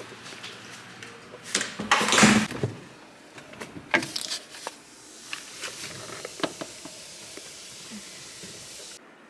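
Handling noises in a small room: scattered clicks and knocks, with a louder rustling clatter about two seconds in.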